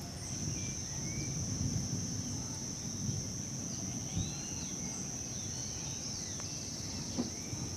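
A steady, high insect drone with birds giving short chirps on top, over a low rumble of wind.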